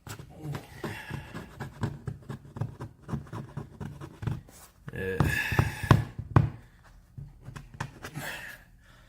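Irregular clicks, knocks and rustling, as of objects being handled, with a louder cluster of knocks about five to six and a half seconds in.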